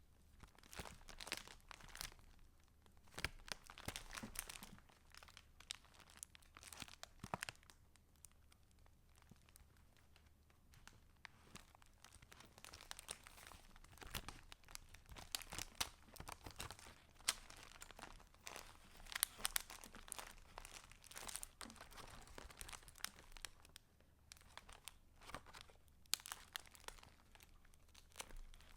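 Paper pages and mixed paper scraps of a handmade junk journal being turned and handled, rustling and crinkling in irregular bursts, with a short lull about a third of the way in.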